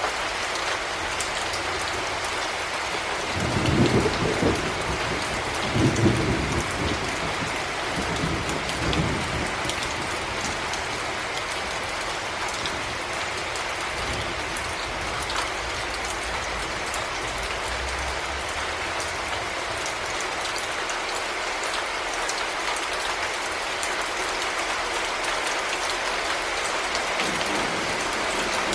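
Heavy rain falling steadily, with a low roll of thunder a few seconds in that rumbles in several swells for about six seconds before fading back into the rain.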